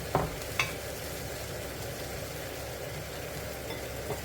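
Pan of chicken, mushroom and cucumber in soy gravy cooking over heat with a steady sizzling hiss. Two quick sharp clicks of a utensil against the pan come within the first second.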